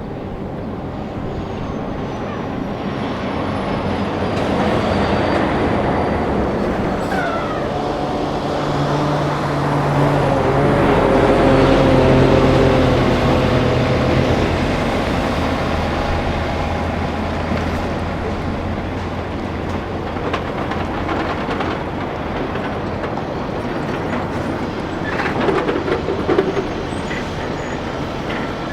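Heavy diesel vehicle passing close by: a steady engine-and-rolling rumble that builds to its loudest about twelve seconds in and then eases off, with a short clatter near the end.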